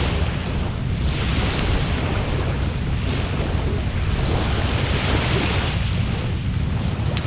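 Wood fire burning in a Coleman Fire Disk fire pit, a steady rushing hiss that swells and ebbs, with wind rumbling on the microphone and a steady high-pitched tone behind it. There is a single faint crackle near the end.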